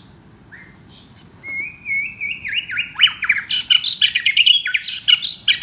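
White-rumped shama (murai batu) singing: a few drawn-out whistled notes from about a second and a half in, building into a fast, loud run of varied notes and trills.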